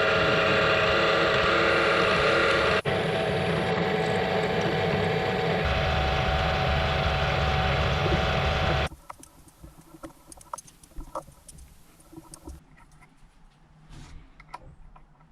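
Motor-driven drilling machine running steadily while drilling the hole for a 5 mm pinch bolt in the clamping bracket, then switched off about nine seconds in. Faint clicks and handling sounds follow.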